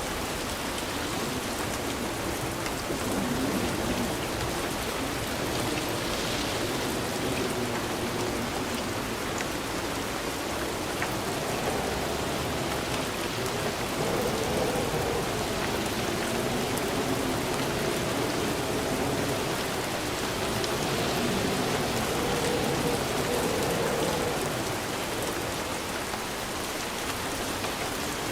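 Steady rain falling, with thunder rumbling at times.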